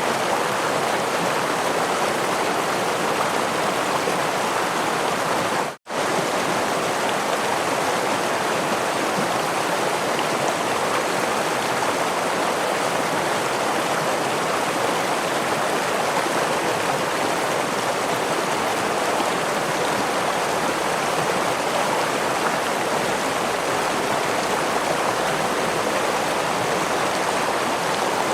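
Running water of a stream or small waterfall, a steady, even rush. It cuts out for a split second about six seconds in, then resumes unchanged.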